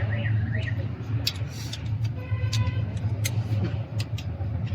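A steady low engine-like drone runs throughout, with scattered sharp clicks and knocks. A warbling alarm-like tone stops under a second in.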